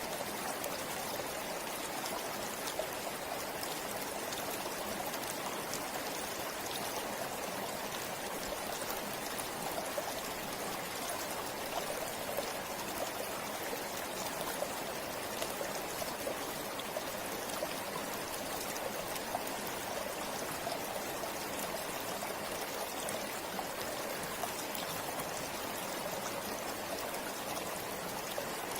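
Steady flow of a forest river or stream over rocks: a continuous rushing with fine splashes and trickles.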